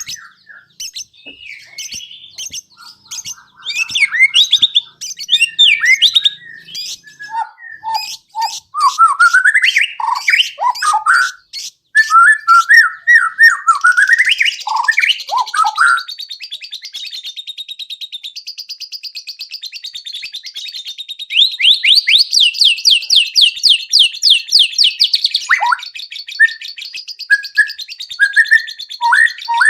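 White-rumped shama (murai batu) singing a long, varied song of rising and falling whistles and chirps, broken by long runs of rapid repeated trill notes in the middle and again later on. The song is packed with its repertoire of imitated phrases.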